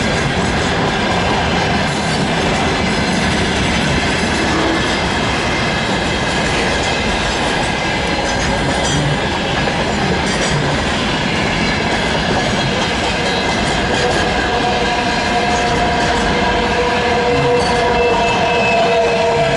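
Loaded freight train hauled by a VL80S electric locomotive passing at speed, its wagon wheels rolling and clattering over the rails in a loud, steady rush. Faint ringing tones join in over the last few seconds.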